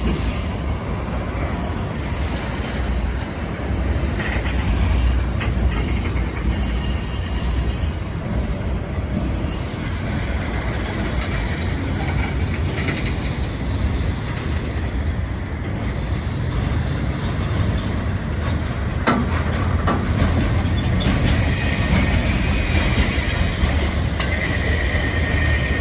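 Freight cars of a passing CSX train rolling by, a steady low rumble of steel wheels on rail. A wheel squeal rises in the last few seconds, and there is a single sharp click about three-quarters of the way through.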